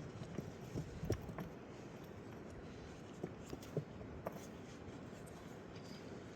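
A few light knocks and scrapes of something being handled, bunched about a second in and again around the middle, over a steady low hiss.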